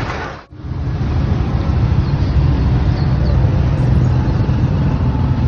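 Steady low outdoor rumble with hiss, of the kind made by road traffic or wind on the microphone, broken by a short drop about half a second in.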